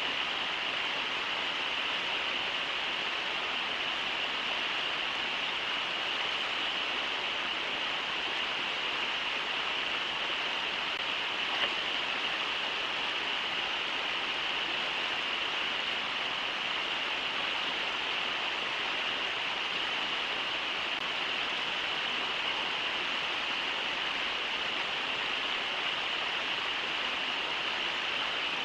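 Steady rush of the Brooks River's water running over the falls and riffles, an even hiss with no break.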